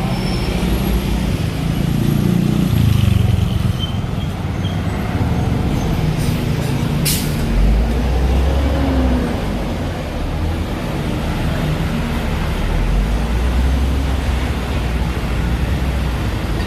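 Busy street traffic: vehicle engines running and passing, with a short sharp hiss about seven seconds in.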